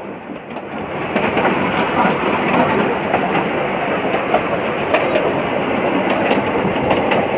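A steam-hauled passenger train running, heard from the carriage: a steady rumble of wheels on rail with scattered clicks from the track, growing louder about a second in.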